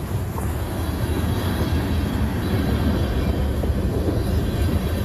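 Long freight train's cars rolling past close by, a steady rumble of steel wheels on rail.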